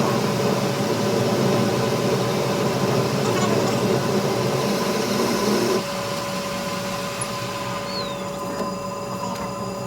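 A machine running steadily with a constant hum and whine, growing quieter about six seconds in.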